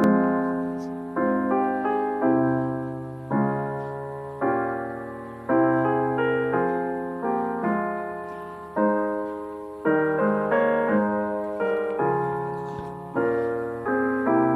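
Slow piano music: sustained chords struck about once a second, each ringing and fading before the next.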